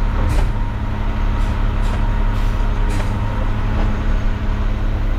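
Front loader garbage truck's engine running steadily, with a few faint clicks over the hum.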